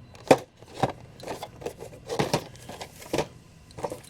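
Boxed Funko Pop figures being handled and set down: a handful of separate knocks and taps of cardboard packaging, with light scraping and rustling between them.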